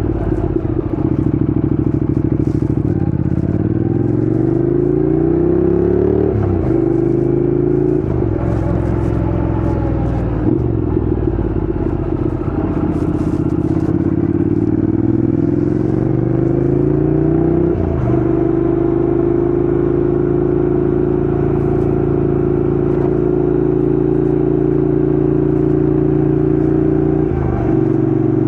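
Honda NC750X parallel-twin engine under way, pulling through the gears. The revs climb and drop sharply at an upshift about six seconds in, climb again and shift about two-thirds of the way through, then hold steady at cruising speed with a brief dip near the end.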